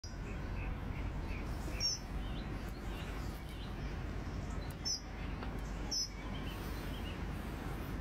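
Birds chirping over a steady low background noise: a quick run of short chirps in the first two seconds, then single sharp high chirps about two, five and six seconds in.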